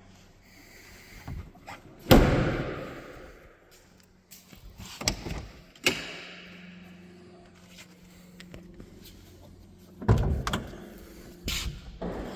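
Clunks and knocks from a 1971 Triumph Stag's body being opened up, a door or lid latching: a loud clunk about two seconds in that rings down, two sharper knocks a few seconds later, and a cluster of clunks near the end.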